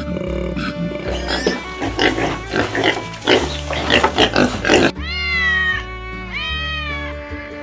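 An animal grunting in rough, noisy bursts, then, after an abrupt change about five seconds in, two drawn-out pitched calls that rise and fall, over background music with a steady bass line.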